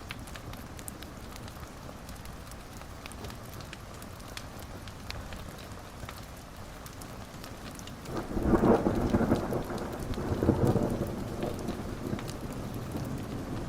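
Steady rain with scattered small ticks, and a roll of thunder starting about eight seconds in that rumbles on for several seconds before fading back under the rain.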